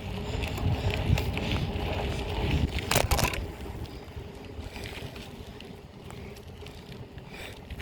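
Wind buffeting and the rumble of a moving BMX bike, picked up by a phone taped to the bike. There are a few sharp clatters about three seconds in, and after them the noise drops lower.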